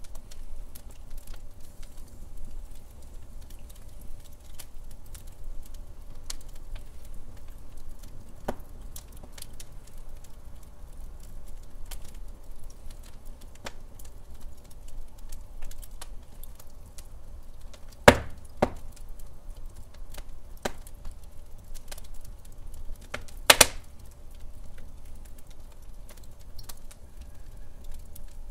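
Wood fire crackling in a fireplace: a steady scatter of small snaps and ticks over a low rumble of the flames, with two loud pops in the second half.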